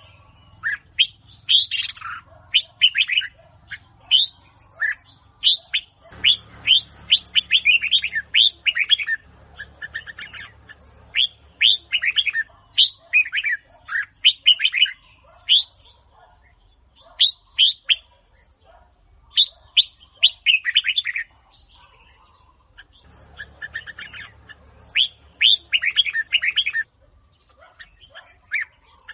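Red-whiskered bulbul (Huế chào mào) singing: repeated phrases of rapid chirping notes, with short pauses between phrases.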